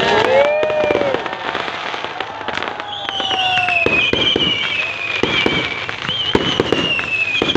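Fireworks going off: a dense run of sharp bangs and crackles. From about three seconds in, a high wavering whistle sounds over the bangs.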